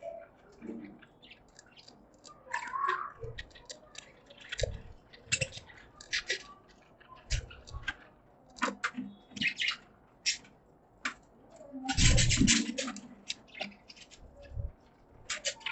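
Caged budgies chirping in quick, short calls, with a few low thumps and a louder, fuller burst of sound about twelve seconds in.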